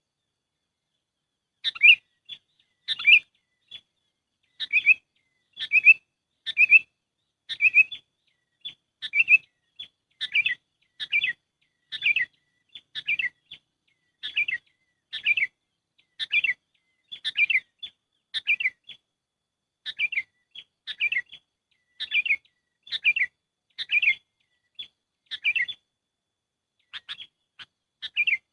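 Sooty-headed bulbul (kutilang) calls: short, bright chattering phrases repeated about once a second with brief silent gaps between, a lure recording for drawing in bulbuls.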